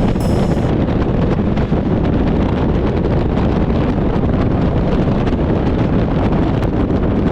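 Steady, loud wind rushing over the microphone of a camera on a moving motorcycle, with the low rumble of the ride underneath.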